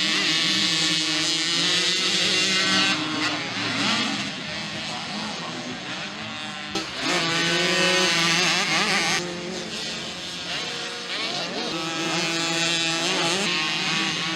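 Mini motocross bikes with small 50cc engines racing, several at once, revving up and down as they pass through the track, louder at times and easing off in between.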